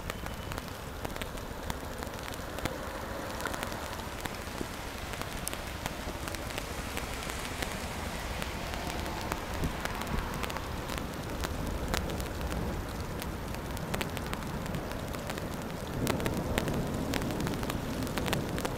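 Steady rain falling, with many sharp ticks of drops striking close by; it gets louder near the end.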